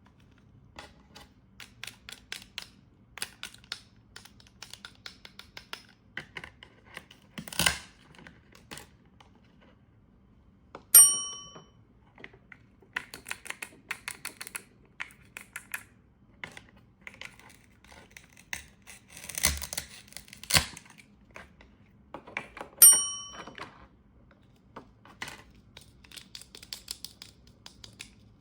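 Plastic toy fruit being cut and handled: the Velcro halves tear apart, with many small clicks, taps and rustles of hard plastic pieces. Two loud ringing clinks stand out, about 11 seconds in and again about 23 seconds in.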